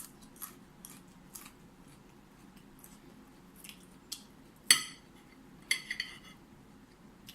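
Eating utensil clinking against a dish: one sharp, ringing clink a little under five seconds in, then a quick cluster of clinks about a second later, with faint scattered clicks between.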